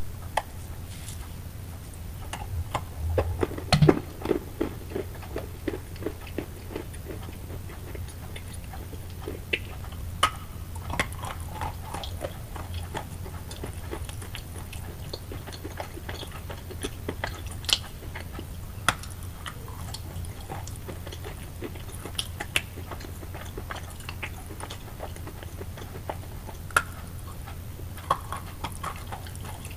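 Wet chalk being bitten and chewed: a dense run of crunches about four seconds in, then scattered sharp crackles over a low steady hum.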